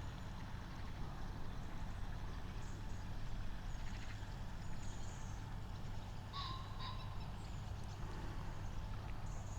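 Outdoor ambience: a steady low rumble, as of wind on the microphone, with a few faint, short, high bird chirps about four to seven seconds in.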